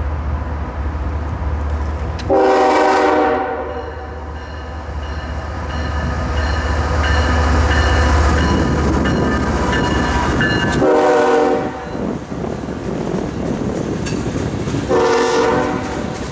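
CSX freight train led by a GE diesel locomotive passing close by, its engine rumbling as it nears and its air horn sounding three times: a longer blast about two seconds in, then two shorter ones. After the locomotive goes by, the freight cars clatter over the rails.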